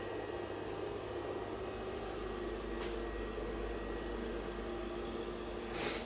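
Steady low mechanical hum with a faint whine, as of a portable fridge's compressor running; a brief rustle near the end.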